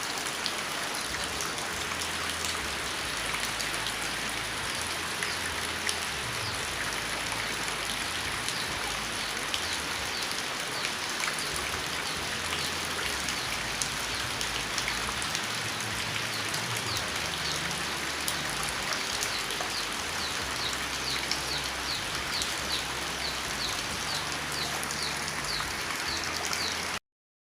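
Steady patter of falling water, like rain, with many small drops striking a surface. A run of short, high, evenly repeated chirps comes in over it in the last several seconds, and everything cuts off abruptly just before the end.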